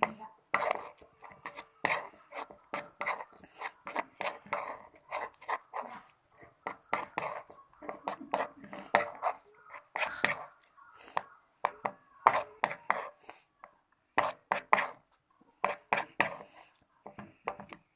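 Glue-and-liquid-soap slime being stirred and folded with a stirrer in a container, making irregular clicks and knocks.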